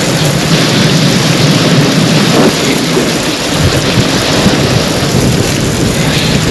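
Heavy rain pouring steadily, with a low rumble of thunder swelling around the middle.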